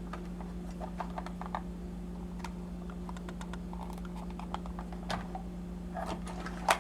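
Small toy models being handled: scattered light clicks and taps of plastic and die-cast parts, with a sharper knock near the end, over a steady low hum.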